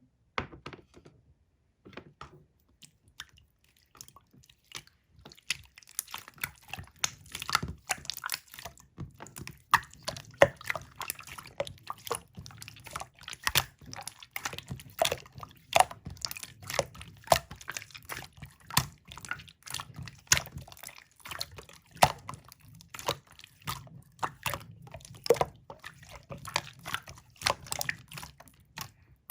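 Clear slime being squished and worked by hand: a run of irregular clicks and pops, sparse at first and coming thick and fast from about six seconds in.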